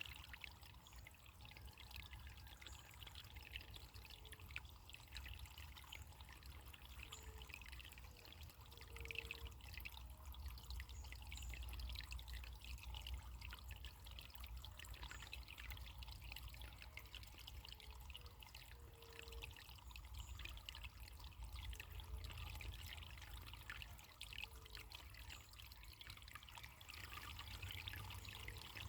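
Running water trickling steadily, like a small stream over stones, with a low rumble beneath it and faint short tones coming and going.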